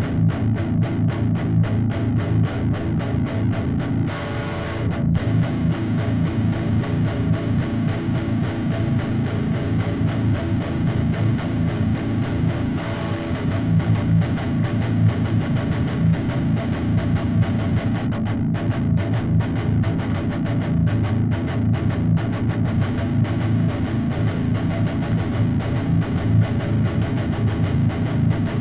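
Seven-string electric guitar with a Seymour Duncan Nazgul pickup, played through a Stomp Machines Prometheus high-gain distortion pedal (modelled on the Revv G3) and a cabinet impulse response. It plays fast, tightly picked heavy metal riffs, with a chord left ringing briefly about four seconds in.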